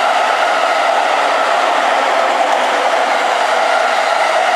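Tokaido Line electric commuter train running past, a loud steady rolling rush with no distinct wheel clicks.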